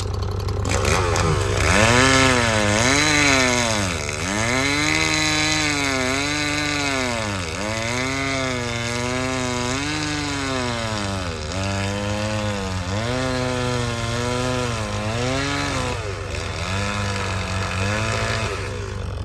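Stihl chainsaw cutting through a pine log, its engine speed sagging and recovering again and again as the chain bites under load. It starts about half a second in and stops near the end. Under it, the Bobcat E35 mini excavator's engine runs steadily.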